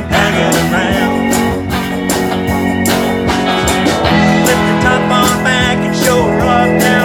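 Live band playing a bluesy song, guitar to the fore over a steady beat, with a wavering lead melody line.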